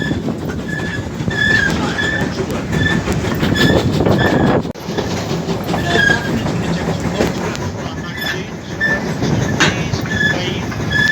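Railway brake van running along track: a steady rumble of wheels on rail with short, high wheel squeals repeating about every half second. The sound breaks off abruptly about halfway through and picks up again at once.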